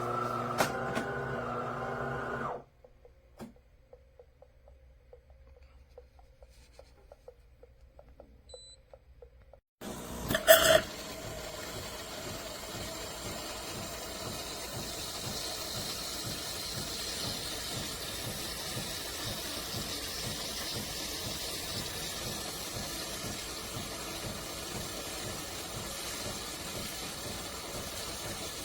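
De'Longhi Eletta Explore automatic espresso machine at work: a steady motor hum that stops after about two and a half seconds, a stretch of near quiet with faint clicks, then a loud clunk about ten seconds in and a steady hissing, water-like rush that runs on.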